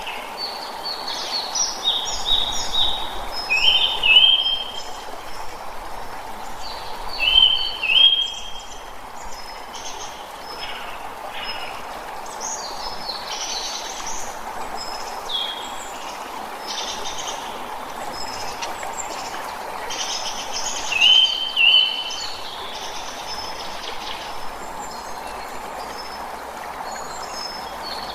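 Several birds chirping and calling, with a short, rising, two-part call standing out loudest three times, over a steady background hum.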